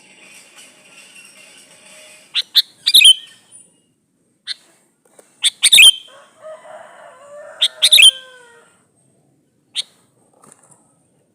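Male sooty-headed bulbul calling: three loud bursts of sharp call notes about two and a half seconds apart, with single short notes between them and a softer, lower warble in the middle.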